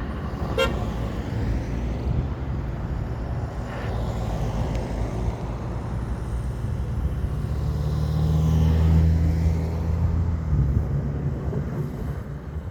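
Motor-vehicle road noise: engine and tyre rumble that swells into a strong, steady low drone about eight seconds in and falls away after about ten seconds, as a vehicle goes by or works harder.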